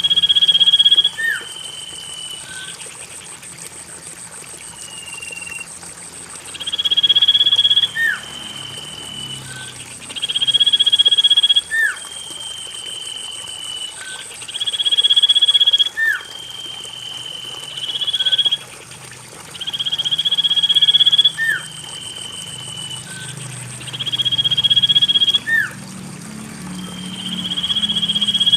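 Common iora song: a long, high whistled note that steps slightly lower, and a lower whistle ending in a quick slur, the phrase repeating about every four seconds. A steady thin high tone runs behind it.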